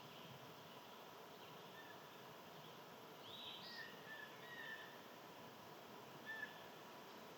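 Faint steady background hiss with a few soft bird chirps in the middle and one short chirp near the end.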